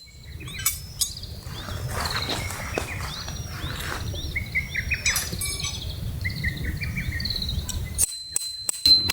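Birds chirping and singing in outdoor ambience over a low steady rumble, with a few scattered clicks. About eight seconds in, the ambience gives way to music with a regular bell-like ticking.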